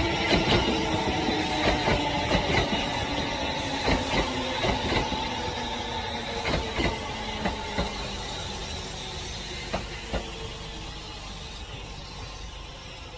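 Train wheels clicking in pairs over rail joints above a steady rail rumble. The pairs come further apart and the sound dies away, as the train slows.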